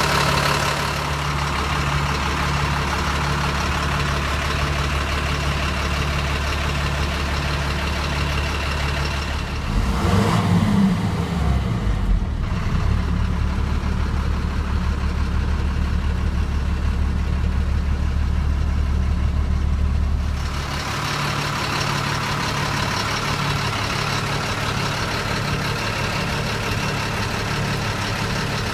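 A heavy truck-mounted engine running steadily at idle. About ten seconds in the pitch briefly rises and falls, and about twenty seconds in the deep low hum drops away while the engine keeps running.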